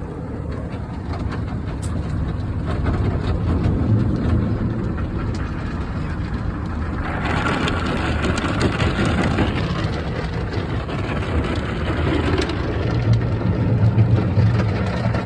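Automatic car wash heard from inside the car: a steady low rumble of the wash machinery, with a hiss of water spray that comes in suddenly about halfway through and fades a few seconds later.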